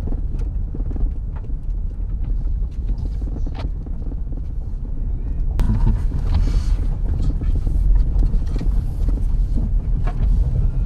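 Car moving slowly, heard from inside: a steady low rumble of engine and tyres, with scattered small clicks and knocks.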